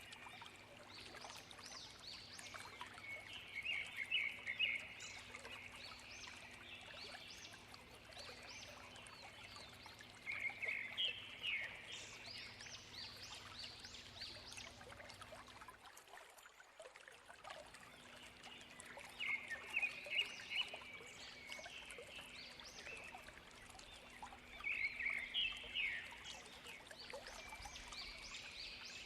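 Songbird singing in four bouts of rapid, high chirping notes over the steady rush of a waterfall.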